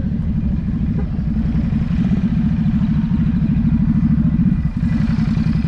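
A vehicle engine idling close by: a steady low sound made of quick, even pulses.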